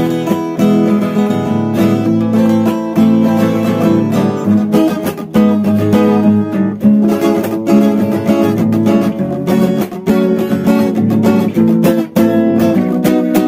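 Acoustic guitar music, plucked and strummed, with no singing.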